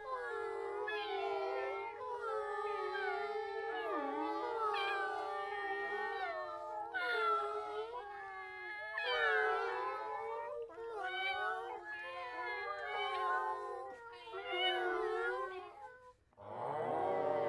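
A human voice imitating a cat, meowing and yowling over and over with hardly a pause. It breaks off briefly near the end, and a different drawn-out vocal sound begins.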